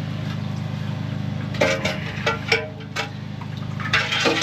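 Mud-sucker vacuum unit's engine running steadily, with several sharp clinks and knocks over it in the second half.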